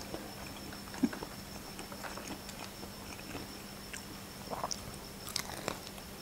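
Quiet chewing of crispy fried chicken wings, with scattered soft clicks and crunches as a wing is picked up and bitten: a sharp one about a second in and a cluster near the end. A faint steady hum runs underneath.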